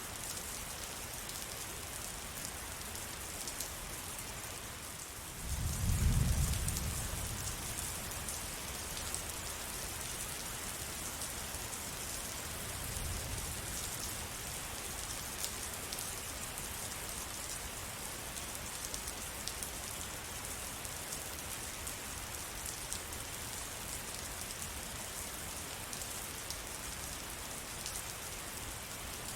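Steady rain falling on surfaces, a dense patter of drops. A low rumble swells about six seconds in and a fainter one follows around thirteen seconds.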